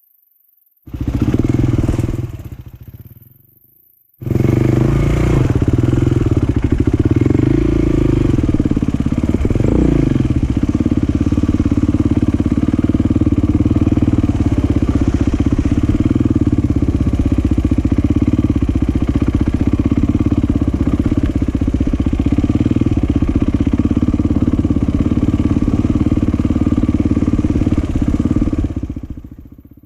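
Motocross dirt bike engines running loudly. There is a short stretch that fades out by about four seconds, then a long continuous stretch. About ten seconds in a falling pitch sounds like a bike passing by.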